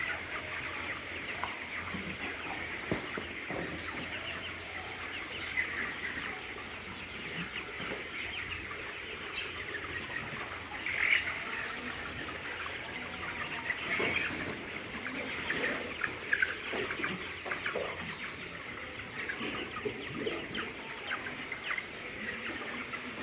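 A flock of broiler chickens calling continuously, a dense mass of overlapping short peeps and clucks, with a few louder calls standing out about 11 and 14 seconds in.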